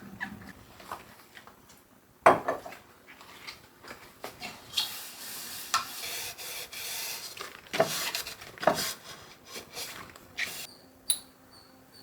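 Household handling sounds: objects knocking and being set down several times, with a few seconds of rubbing noise in the middle.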